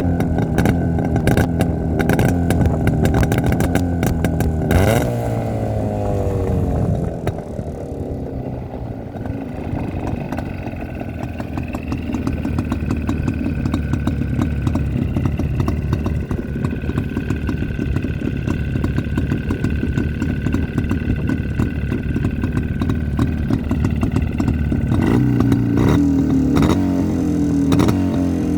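Old Jawa 350 two-stroke parallel-twin motorcycle engine running: revved at first, the revs falling away about five seconds in to a lower steady running for most of the stretch, then revved up again near the end.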